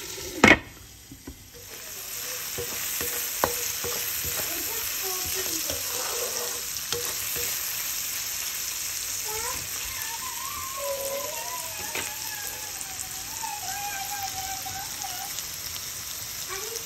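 Julienned potatoes and small shrimp sizzling in hot oil in a wok and being stirred with a spatula, a steady frying hiss. A single sharp knock comes about half a second in.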